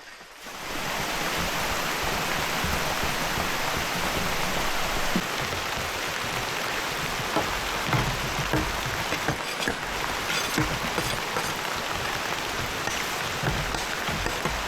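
Heavy rain pouring steadily, with scattered sharper drop impacts, cutting in abruptly about half a second in.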